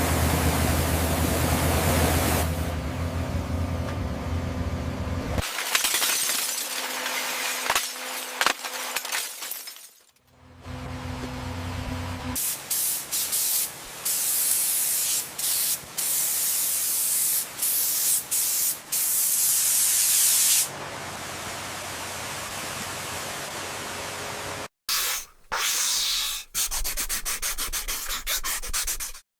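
Quick-cut sequence of work sounds: a motor running with a steady low hum, then hissing and rubbing noise in short, abruptly cut segments.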